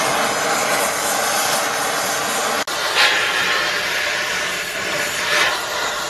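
Gas torch flame hissing steadily while heating a seized bearing on a feed-mixer shaft, so that it expands and can be pulled off. The hiss briefly surges twice in the second half.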